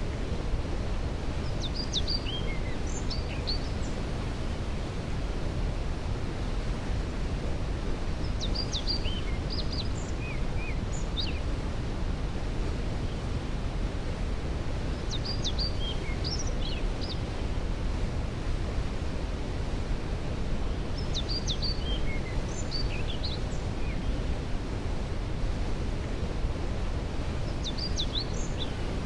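Waterfall rushing in a steady roar of falling water. Over it a songbird repeats a short, high song phrase about every six seconds, five times.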